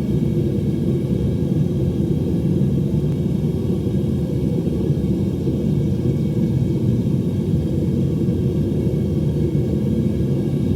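Home metal-melting furnace running with a steady low rumble.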